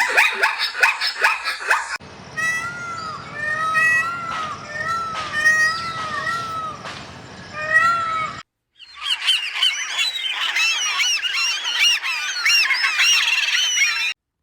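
A run of bird-call clips. First come several seconds of repeated honking calls, then, after a brief break, a dense chorus of many high chirps.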